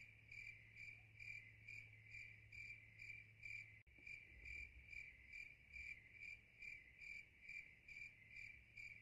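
Faint cricket chirping in a steady, even rhythm of about three chirps a second, over a low steady hum.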